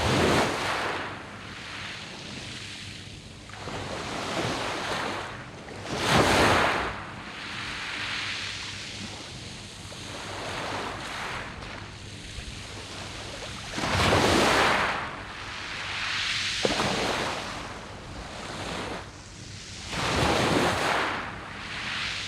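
Sea waves breaking and washing up a round-pebble beach, a rushing hiss that swells four times, about every six to eight seconds, with quieter washing between the surges.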